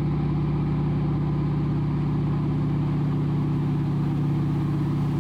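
The T6 Harvard's Pratt & Whitney R-1340 Wasp radial engine running steadily in flight, a constant low drone.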